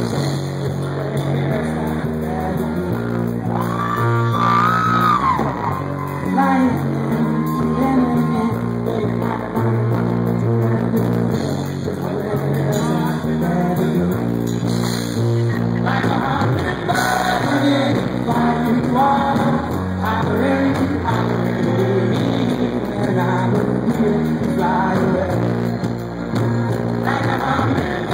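Live rock band music with a male singer's voice gliding over the band, at a steady level.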